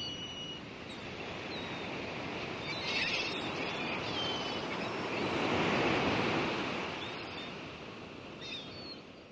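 Steady rushing outdoor noise like surf or wind, swelling about six seconds in and then fading out, with a few short high chirps like birds over it.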